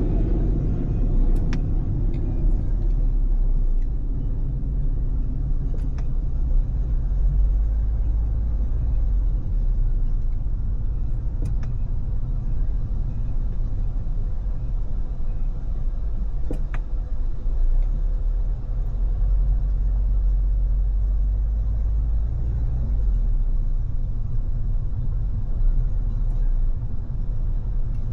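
Steady low road rumble of a car cruising on a freeway: tyre and wind noise with the odd faint click.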